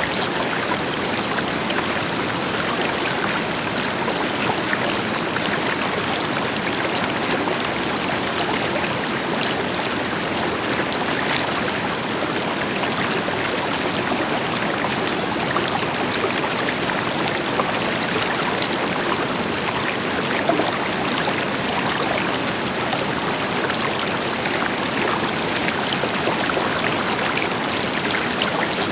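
River water flowing steadily over rocks, a continuous rushing with fine splashes and trickles, with a distant waterfall's deeper rush blended in.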